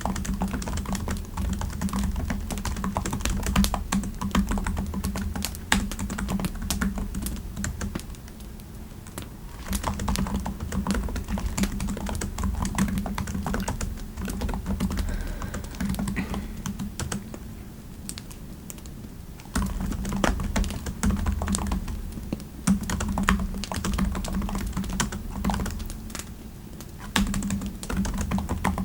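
Typing on a computer keyboard: runs of keystrokes with a soft low thud under each, easing off briefly three times.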